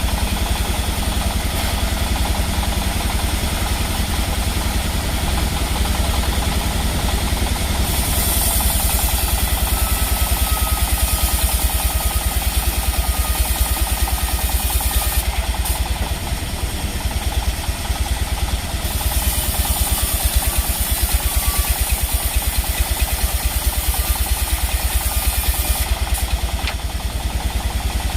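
Sawmill's engine running steadily with a fast, even low pulse. A high hiss comes in twice, first about eight seconds in and again near twenty seconds, each time for several seconds.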